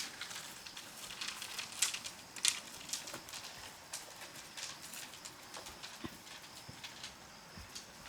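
Light clicks and taps at irregular intervals, a few of them sharper than the rest, over faint background noise.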